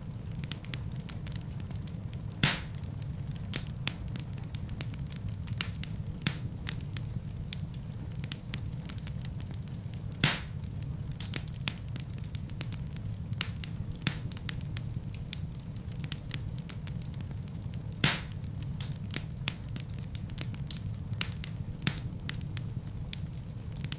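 Wood fire in a fireplace crackling, with a steady low rumble of flames under frequent small snaps. Three louder pops stand out, about 2.5, 10 and 18 seconds in.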